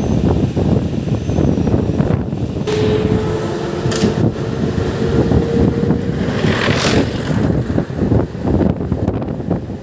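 MEMU electric passenger train running, heard from on board: a steady rumble and clatter of the wheels on the track. A faint steady hum comes in about three seconds in and lasts a few seconds, and there are two brief rushes of hiss.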